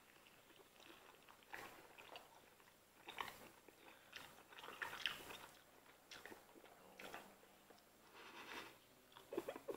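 Faint, scattered chewing and mouth sounds from a person eating lobster, coming in short soft bits every second or so.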